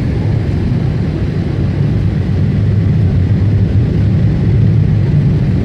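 Boeing 747-8 heard from inside the passenger cabin: a steady low rumble of its GEnx engines and airframe, growing slightly louder about two seconds in.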